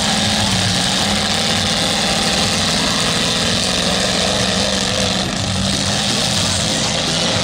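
Several demolition derby cars' engines running hard together in a loud, steady drone.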